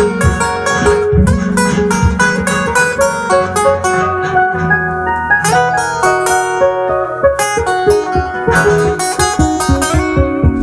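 Instrumental break of an acoustic song: acoustic guitar picking a quick run of single notes over a sustained bass line.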